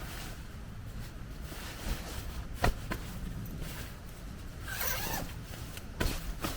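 A zipper pulled briefly, with a couple of sharp clicks of gear being handled over a steady low rumble.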